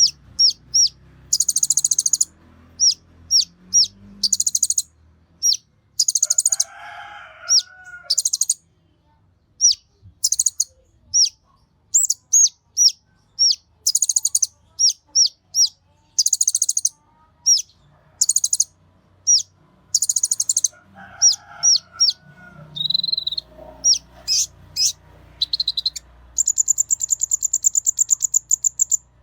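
Kolibri ninja (purple-throated sunbird) singing: rapid, very high-pitched chirps mixed with short buzzy trills, with a long fast trill near the end. A fainter, lower call, like a chicken's, is heard twice.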